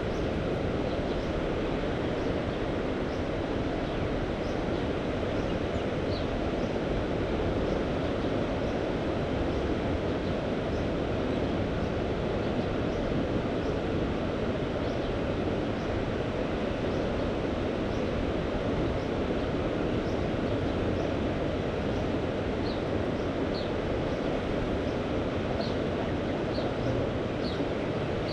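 Steady rushing ambience of wind and sea at the shore, even in level, with faint short bird chirps now and then, more of them near the end.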